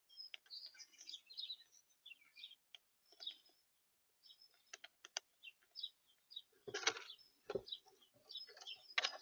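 Small birds chirping at a bird feeder, with scattered sharp taps and louder knocks about seven and nine seconds in.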